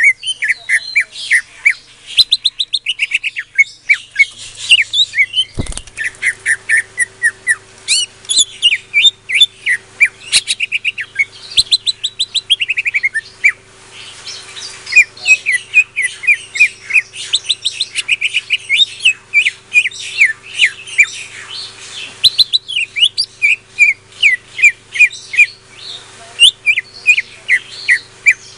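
Songbird singing continuously in rapid chirps, quick downward-sweeping notes and fast trills of repeated notes.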